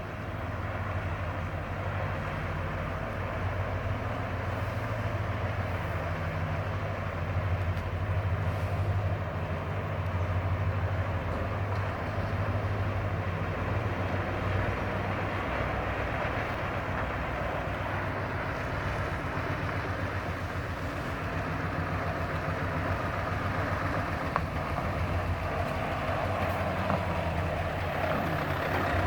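Scania S 580 truck's V8 diesel running steadily under way, a constant low engine drone with a hiss of road and wind noise over it.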